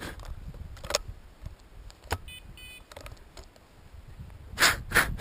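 A dog sniffing and snorting in short bursts, loudest near the end, over low wind rumble. Two short electronic beeps come about two seconds in.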